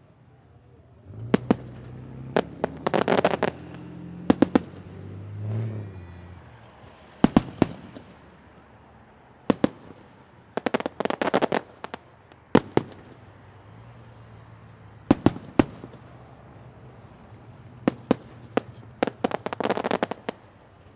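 Fireworks going off: aerial shells bursting with sharp single bangs, and three spells of rapid crackling pops, about three seconds in, in the middle and near the end.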